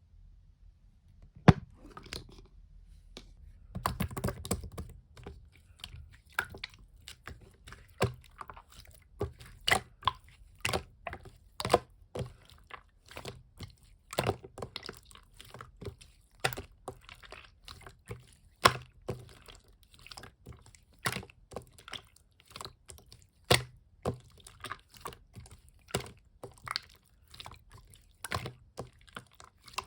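Opaque slime being pressed and worked by hand, giving irregular sharp clicks and pops of trapped air, about one or two a second.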